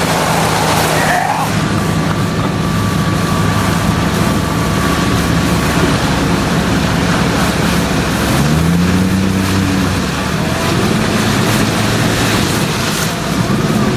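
A vehicle engine running under the steady noise of heavy rain and floodwater, with an engine rising in pitch about eight seconds in as it speeds up.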